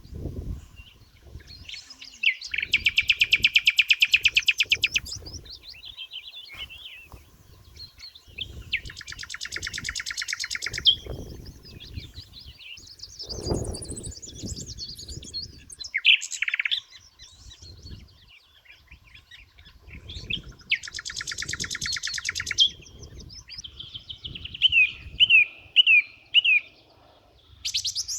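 Songbirds singing: a fast, high trill of about two seconds comes back three times, with scattered chirps in between and a run of five quick falling notes near the end. A faint low rumble comes and goes underneath.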